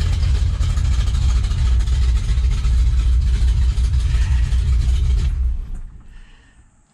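The 1967 Pontiac GTO's bored-out 455 V8, with its 3-inch exhaust, running steadily and loudly, then switched off about five seconds in, the sound dying away within about a second.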